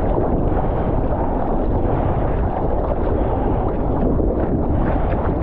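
Steady rush of wind buffeting a GoPro's microphone, mixed with the wash of lake waves.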